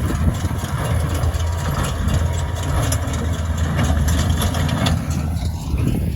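Oliver 1555 tractor's engine running steadily with a strong low hum while pulling a small square baler, with mechanical clatter over it. The higher clatter fades about five seconds in.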